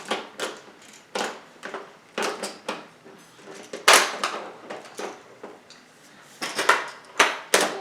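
Plastic Magnetic Polydron tiles clicking and clacking together in an irregular string of sharp knocks as they are pulled apart and snapped into place, the loudest about four seconds in.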